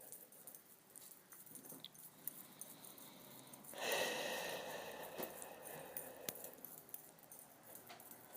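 A person exhales forcefully once, about four seconds in. Low room tone and a few faint clicks fill the rest.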